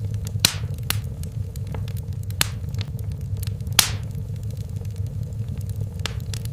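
Wood fire in a fireplace crackling: a steady low rumble of the flames with a few sharp pops, the loudest a little before the four-second mark.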